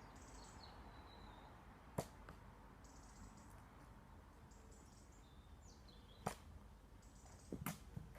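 Nerf blaster shots: a sharp snap about two seconds in, another about six seconds in, and a quick pair near the end, over near silence.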